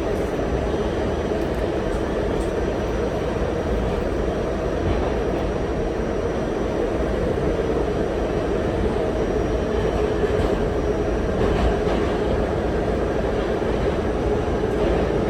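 R68 subway car running at speed, heard from inside: a steady rumble of wheels on the rails and running gear, with no marked change through the stretch.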